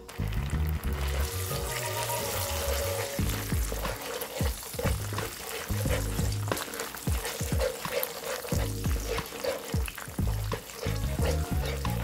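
Chunjang (Korean black bean paste) sizzling as it fries in hot oil in a nonstick pan, stirred with a spatula.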